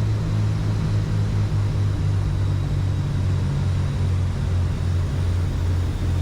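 Cessna 310Q's twin six-cylinder Continental engines at reduced power in the landing flare, heard from inside the cabin as a steady low drone whose pitch wavers slightly.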